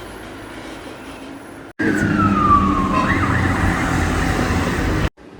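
Street noise, then after a sudden cut an emergency-vehicle siren wailing over traffic rumble: its pitch slides down for about a second, then jumps back up and carries on until another abrupt cut near the end.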